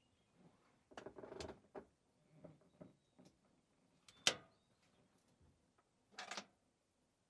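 A few light knocks, clicks and rustles at irregular intervals, the sharpest a single click about four seconds in.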